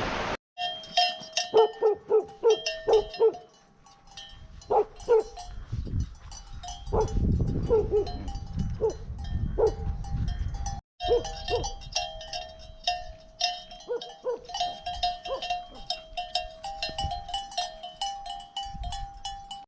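Livestock bells clanking and ringing irregularly, many strokes overlapping, as a flock moves.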